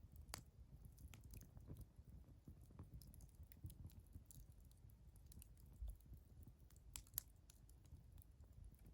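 Wood fire burning quietly, with faint irregular crackles and a few sharper pops, the sharpest about seven seconds in, over a low, soft rumble.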